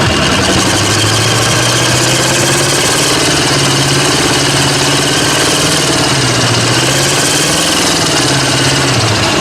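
Mud truck engine running loudly at a steady speed, its pitch held nearly constant, with a steady hiss over it.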